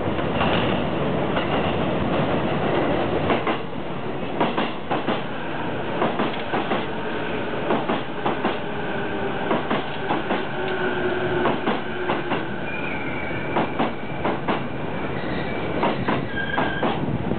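JR East E233-series electric train arriving slowly over the points and crossovers into a terminal platform. Its wheels click repeatedly over the rail joints and switch frogs under a steady running rumble, with thin high wheel squeals now and then on the curved pointwork.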